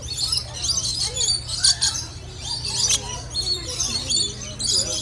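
A flock of lorikeets calling over one another in quick, shrill, chattering bursts, over a steady low hum.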